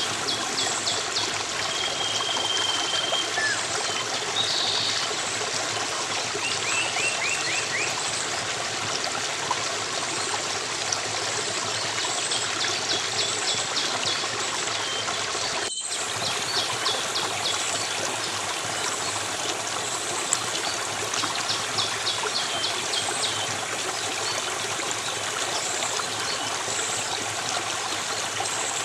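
A stream running steadily, with small birds chirping in quick high-pitched series and the odd short whistled note over the water. The whole sound cuts out for an instant about halfway through.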